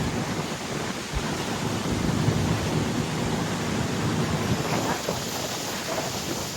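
Steady wind buffeting the microphone on a moving boat, with a low rumble and the rush of water underneath.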